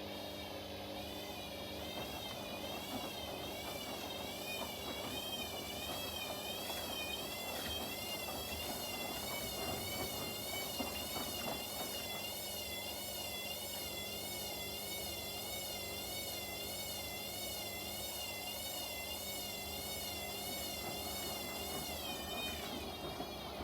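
Front-loading washing machine running, its motor giving a high whine that wavers up and down in pitch over a steady hum; the whine drops away near the end.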